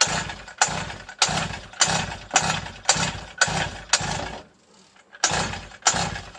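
Recoil pull-starter on a rebuilt 50cc two-stroke mini moto engine yanked over and over, about one pull every half second with a short pause near the end. The engine turns over on each pull but never fires, which the owner puts down to bad petrol.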